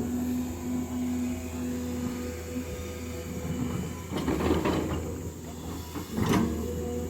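Diesel earthmoving machine running steadily, with a held whine that fades about halfway through. Two short spells of scraping and clatter come about four and six seconds in.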